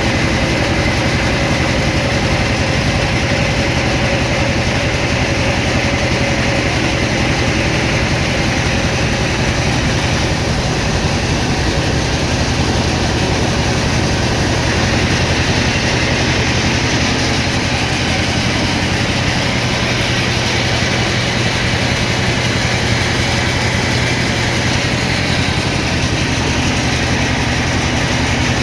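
Sawmill machinery running: a steady, unbroken motor drone that keeps the same pitch, with no knocks or breaks.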